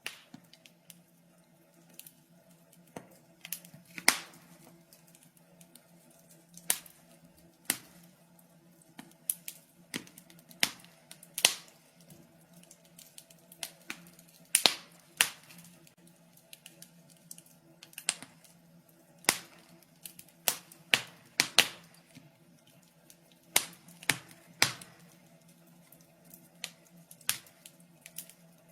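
Wood fire in a fireplace crackling, with irregular sharp pops and snaps, some close together, over a faint steady low hum.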